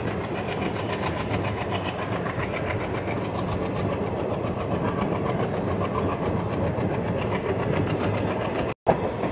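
Passenger train running along the track: a steady rumble and rattle of wheels on rails. It cuts off suddenly near the end.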